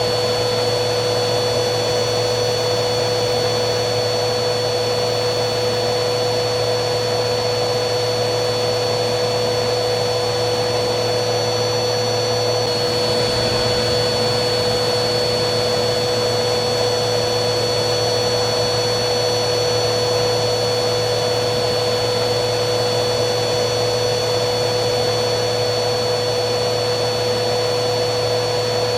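Vacuum cleaner running steadily: a constant rush of air with a steady hum and a high whine. About thirteen seconds in, the high whine shifts slightly in pitch, while the loudness stays the same.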